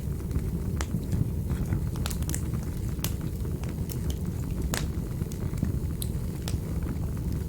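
Fire crackling in a fireplace: a steady low rumble of flames with about a dozen sharp clicks and pops at irregular intervals, one louder pop a little past the middle.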